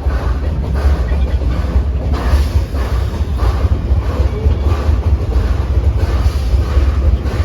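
A 1901 Dickson-built steam locomotive hauling a train, with repeated exhaust chuffs over the rolling of the cars. A heavy steady rumble of wind on the microphone runs underneath.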